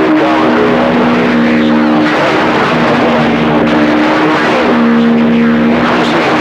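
CB radio receiver putting out loud, steady static hiss over a band full of skip, with several steady whistling tones from overlapping carriers fading in and out.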